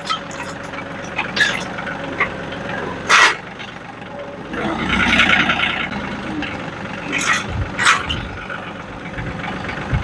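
A vehicle engine running steadily, with several sharp knocks and clanks and a louder rushing stretch about halfway through.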